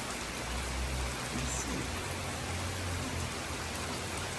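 Heavy tropical-storm rain falling steadily, an even hiss, with a low rumble for a couple of seconds in the middle.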